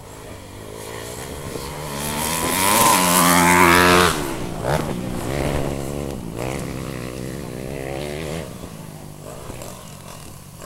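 Motocross motorcycle engine revving, growing louder and rising in pitch to a peak about four seconds in, then dropping off sharply, followed by quieter revving that fades toward the end.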